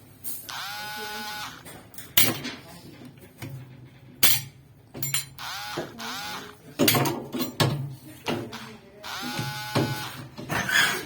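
Power drill running in short bursts, each one spinning up and holding for about a second, with separate knocks and clatter between the bursts.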